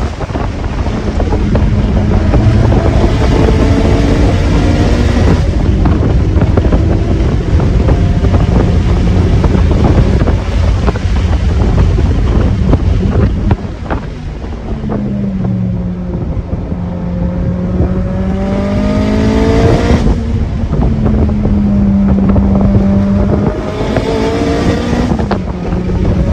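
Performance car with an aftermarket exhaust being driven hard on a racing circuit: the engine note climbs under acceleration, drops at gear changes and lifts off about halfway through before pulling again, with wind noise throughout.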